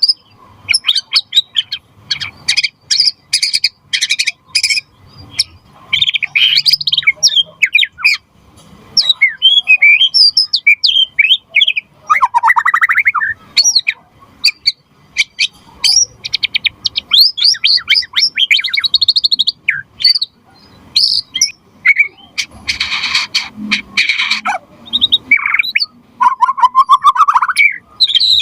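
White-rumped shama (murai batu) in full song: a long run of varied phrases, mixing fast trills, clear whistled glides and harsh buzzy rattles, with short pauses between them.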